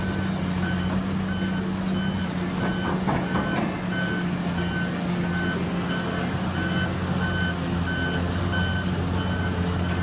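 Backup alarm on heavy construction machinery beeping steadily, about three beeps every two seconds, over a diesel engine running at a steady speed. A brief clatter comes about three seconds in.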